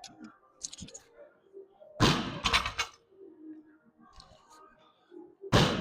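Weights dropped on a gym floor twice, about two seconds in and again near the end: each drop is a heavy thud followed by a quick clatter of bounces.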